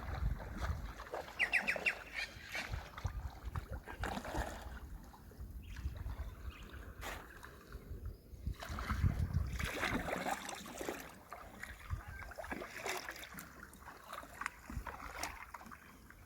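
Canoe paddles dipping and splashing in the water, with a fluctuating rumble of wind on the microphone.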